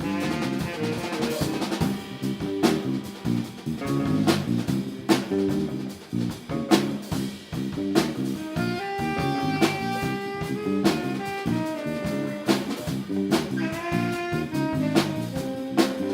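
Live band playing an instrumental jazz tune: drum kit with frequent sharp hits under long held melody notes.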